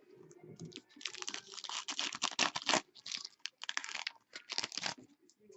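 Rapid crinkling and clicking of trading cards and plastic being handled, densest from about a second in until about five seconds in.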